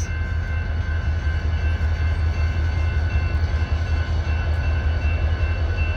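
Diesel locomotive running nearby: a steady low rumble with faint steady whining tones above it.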